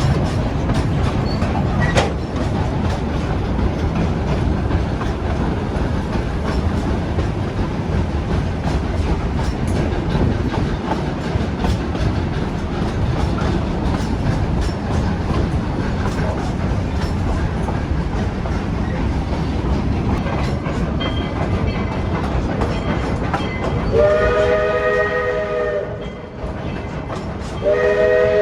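Narrow-gauge excursion train running: a steady rumble of the cars with wheel clicks on the rails. Near the end the locomotive sounds two chord-like blasts of its whistle, about four seconds apart, the second still going at the end.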